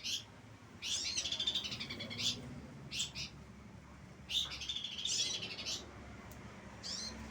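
Pelanduk semak, a babbler, singing in full voice: two long, rapid song phrases of about a second and a half each, with short single notes between them.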